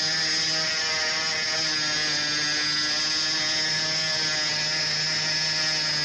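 A steady mechanical hum with many overtones and a high hiss over it, running at an even level: a machine or small motor running continuously.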